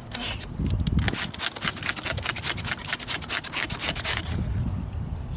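Sandpaper, the 2500-grit stage, rubbing over a plastic headlight lens in rapid, even back-and-forth strokes, about five a second, easing off near the end. The sanding is taking out the coarser scratches left by the 1500 grit as the yellowed, oxidised lens is cleared.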